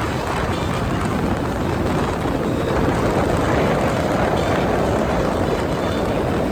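Small motorboat running at speed under a Gladiator 9.9 hp outboard motor: a steady engine drone mixed with a rush of wind and water.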